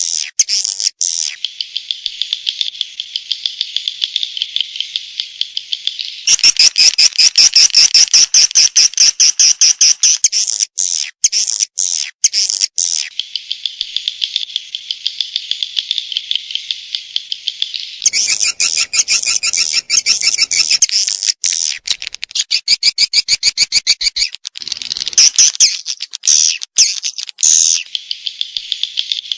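Swiftlet lure call: a recorded swiftlet calling sound of dense, rapid trains of high chirps and twittering, the kind played to draw swiftlets into a nest house. Louder, faster bursts of chirping come about six seconds in and again about eighteen seconds in.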